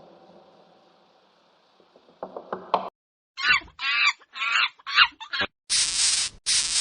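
Bird calls: a run of short squawks with a wavering pitch, then three longer, harsh, hissing calls near the end.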